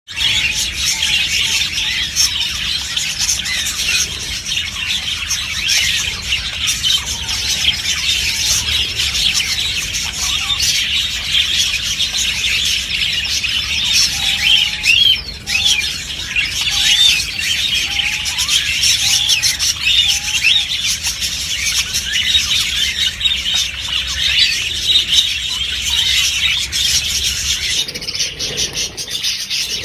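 A flock of green parrots chattering and screeching together in a dense, unbroken mass of calls. About halfway through, a lower call repeats roughly once a second for several seconds.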